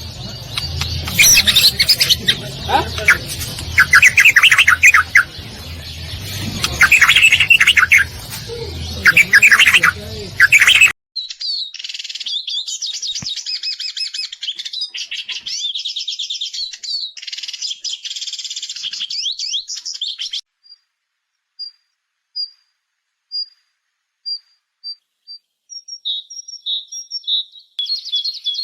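Several wild songbirds singing one after another. First come loud, repeated chirping phrases over background noise. About eleven seconds in the sound changes abruptly to a dense, rapid twittering, then to sparse single high notes about one a second, and near the end to a quick repeated two-note call.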